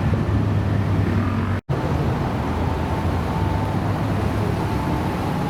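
Car engine running with a steady deep rumble, broken by a sudden split-second dropout about a second and a half in.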